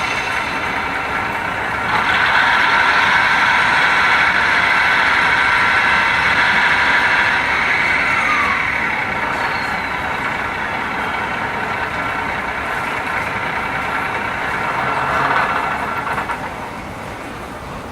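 Class 153 diesel railcar engine sound for a model train, running steadily, then easing off and dropping away near the end.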